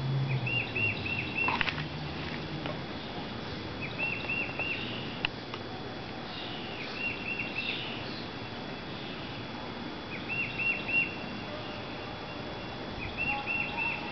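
A songbird singing a short phrase of four or five quick, identical notes, repeated about every three seconds.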